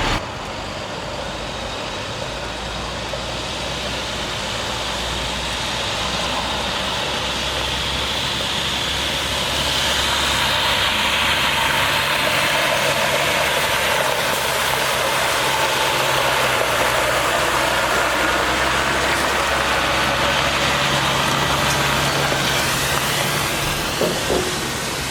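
2009 International 7400 water truck with its MaxxForce DT diesel engine running steadily, a low engine hum under a broad hiss that builds over the first ten seconds and eases a little near the end.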